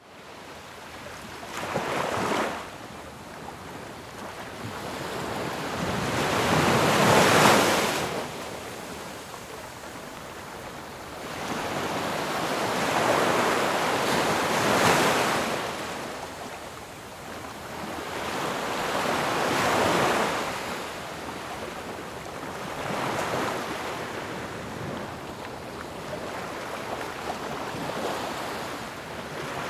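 Ocean waves breaking on shore, surf rising in a wash and falling back every five to seven seconds, with the loudest break about seven seconds in.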